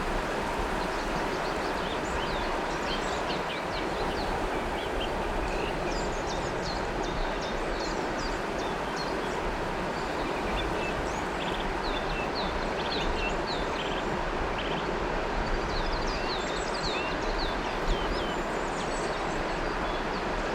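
River water flowing with a steady rushing sound, with many small birds chirping and whistling over it throughout.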